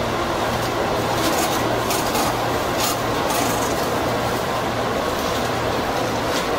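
Running noise of a JR 205-series electric train heard from inside its cab car as it rolls along a station platform: a steady rumble of wheels on rail with a low hum, and a few short hisses in the first few seconds.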